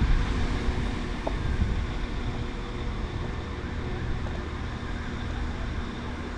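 A train's steady low rumble with a steady hum over it.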